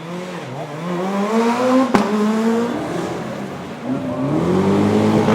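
Rally car engine revving up, with a sharp crack about two seconds in. The revs then fall away and climb again, louder, near the end.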